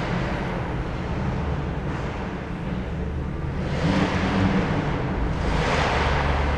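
Car engines running in a slow queue of traffic in a tunnel, heard from inside a car. Louder swells of revving come about four seconds in and again near the end.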